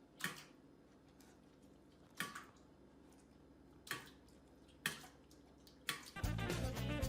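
A few isolated sharp clicks or taps, spaced a second or two apart, over a faint low hum. Background music starts near the end.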